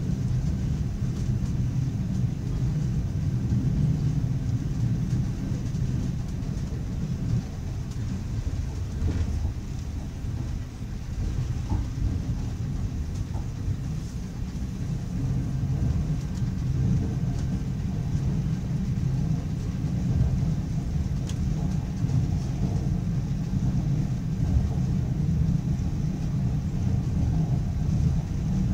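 Steady low rumble of a passenger train carriage running along the track, heard from inside the carriage, with a few faint clicks.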